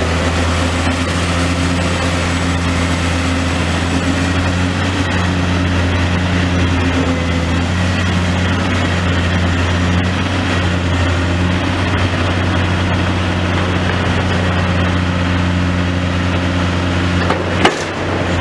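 Demolition excavator's diesel engine running steadily, with a single sharp knock near the end.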